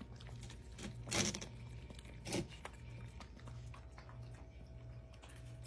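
Puppies eating dinner: faint scattered clicks and crunching, with two louder crunches about one and two seconds in.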